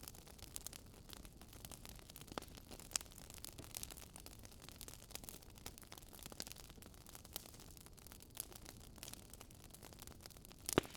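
Faint crackling of a burning wood fire: irregular small pops and snaps over a soft hiss, with a sharper crack near the end.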